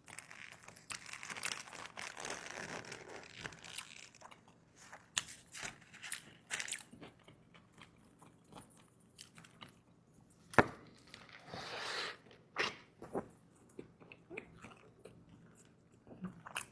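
Close-miked eating: crunchy bites of food topped with pickle, then chewing and wet mouth clicks. A long crunchy stretch opens it, a sharp loud click comes about ten and a half seconds in, and a second burst of crunching follows.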